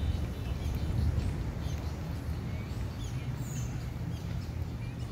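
Birds chirping in the trees, a few short high calls that slide downward, most clearly about three to four seconds in, over a steady low rumble.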